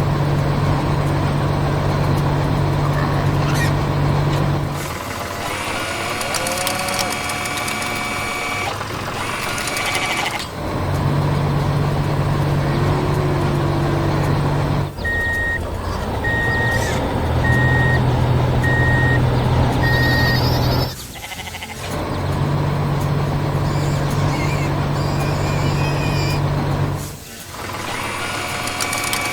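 Heavy vehicle engine running in a steady low drone, broken up by abrupt cuts between several machine sounds. In the middle comes a reversing alarm of about six short beeps, a little more than one a second.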